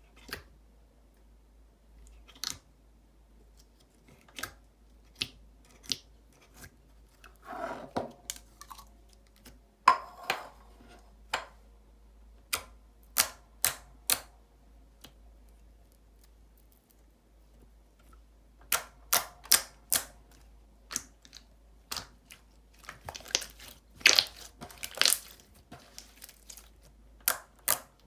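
Soft, jiggly slime being pressed and kneaded by hand, giving irregular sharp clicks and pops of trapped air bursting, in clusters around the middle and again near the end.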